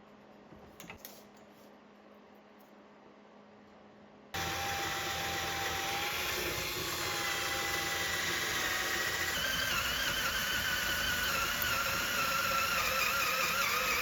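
A power tool starts abruptly about four seconds in and runs steadily for about ten seconds, with a whine that shifts in pitch partway through. Before it there is near silence.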